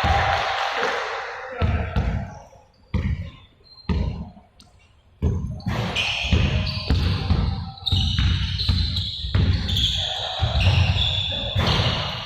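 Basketballs being dribbled on a court floor: repeated sharp thumps, thinning out between about two and five seconds in, then coming thick and fast from several balls.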